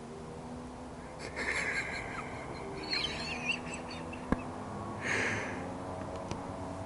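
A bird calling a few times, short chirps with a wavering pitch about a second and a half in, three seconds in and five seconds in. A single sharp click sounds midway.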